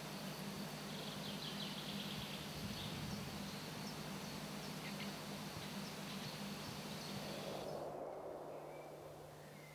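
Faint outdoor ambience: steady hiss and a low hum with a few faint bird chirps, including a quick trill about a second in. Near the end the hiss drops away, leaving the hum.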